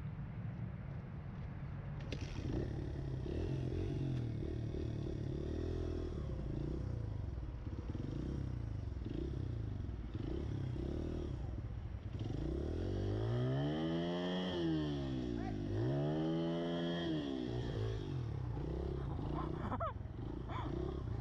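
Pit bike's small single-cylinder engine running and revving unevenly, with two long rises and falls in engine speed in the middle.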